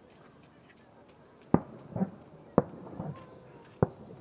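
Fireworks shells bursting: three sharp bangs about a second apart, with softer, duller booms in between.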